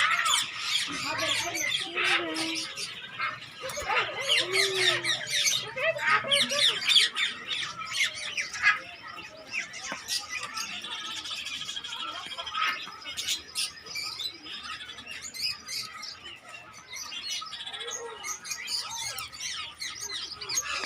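A flock of caged lovebirds and parrots chirping and squawking together, a dense, unbroken chatter of short, sharp calls.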